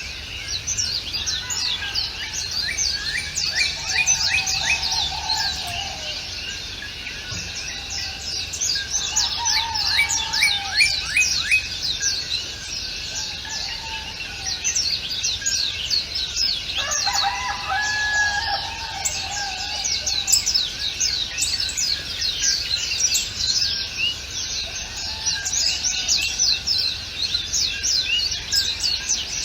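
Many birds chirping and singing at once in a dense chorus of quick, high, downward-sliding notes, with lower, longer calls breaking in now and then, the strongest about two-thirds of the way through.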